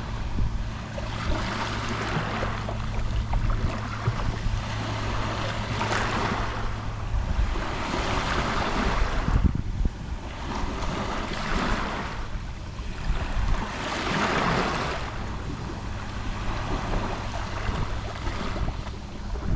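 Gentle sea waves lapping on a shore, a soft wash swelling and falling back about every two to three seconds.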